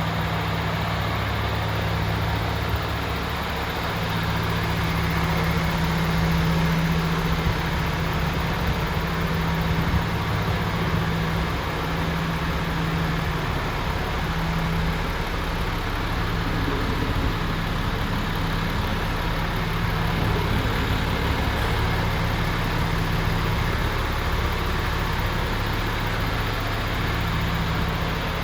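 A MAN TGX 26.500 truck's 500 bhp common-rail straight-six diesel engine idling steadily, with a low, even hum.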